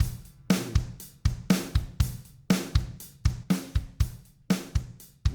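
Recorded drum kit track playing a steady beat of kick drum, snare and cymbals, heard without the compressor applied.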